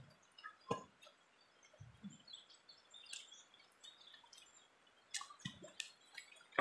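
Faint outdoor ambience with scattered short bird chirps and a few sharp knocks, the loudest about a second in and several more near the end.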